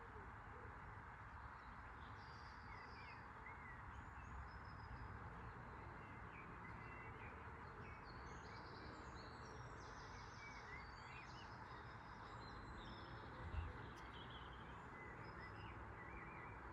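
Faint steady background noise with small birds chirping now and then. One brief low thump about three-quarters of the way through.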